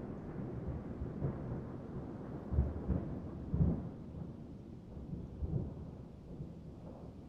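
Rolling thunder rumbling over steady rain, with a couple of stronger low rumbles a few seconds in, then dying away.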